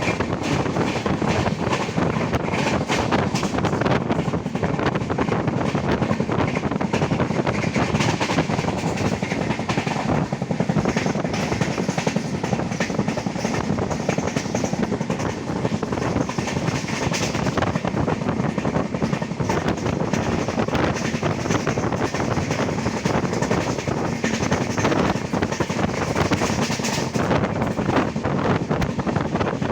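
Passenger train running along the track, heard from aboard: a steady rumble and rush of air with a continual clatter of wheels over the rails.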